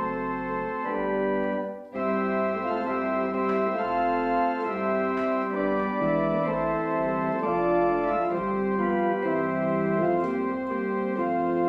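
Organ music: held chords moving from one to the next, with a brief break in the sound just before two seconds in.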